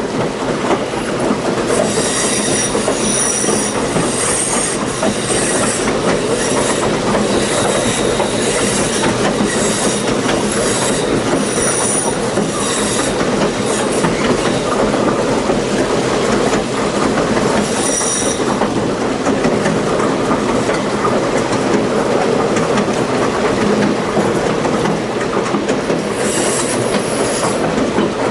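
Railroad passenger cars rolling on the rails with a steady roar and rumble. High-pitched wheel squeal comes and goes several times: for about ten seconds early on, briefly around the middle, and again near the end.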